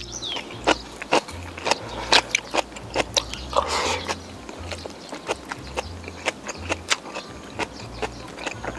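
Close-up eating sounds: chewing of stir-fried pork with sharp, irregular mouth clicks and smacks, a few each second, and a brief rushing slurp a little past halfway. Background music with a low bass line runs underneath.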